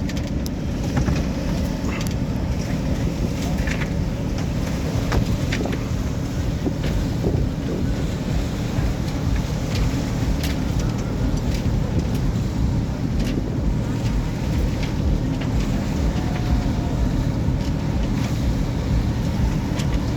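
Wind buffeting the microphone aboard a boat under way, over a steady low hum and water noise, with scattered short clicks.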